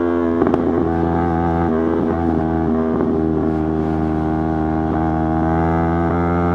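Yamaha YZF-R3's 321 cc parallel-twin engine running at steady, nearly constant revs on the move. The revs wobble briefly about half a second in and again around two seconds, with light wind noise underneath.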